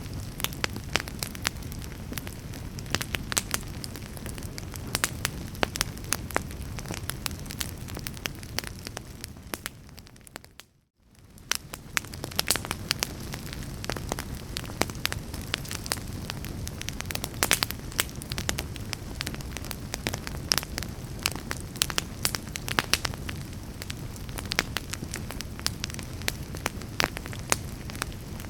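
Fire burning in a fireplace: a steady low rumble with frequent sharp crackles and pops. About ten seconds in, the sound briefly fades almost to silence and then returns.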